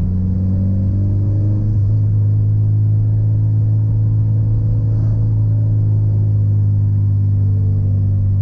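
Mitsubishi Lancer Evolution's engine droning steadily at low cruising revs along with road noise, rising slightly in pitch about a second in and then holding steady.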